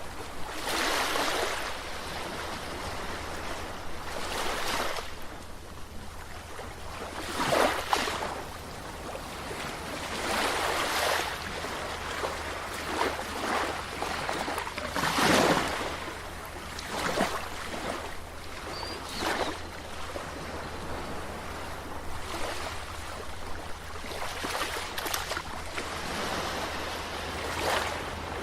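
Sea waves washing in and breaking, surging every few seconds over a steady wash of water, with a constant low rumble underneath.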